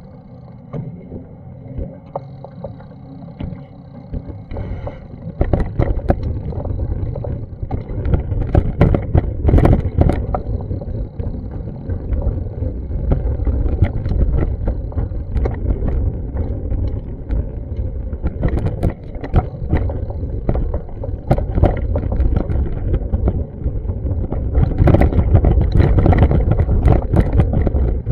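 City street noise: a loud low rumble of passing traffic with many short knocks and clatters, getting louder about five seconds in and again near the end.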